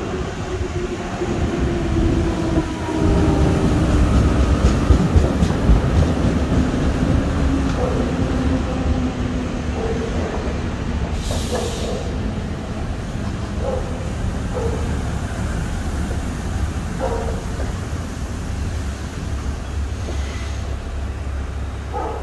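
RER B MI79/MI84 electric train pulling into a station: a steady rumble of wheels on rail under a motor whine that falls slowly in pitch as it slows. There are short squeaks in the second half and a brief hiss about 11 seconds in.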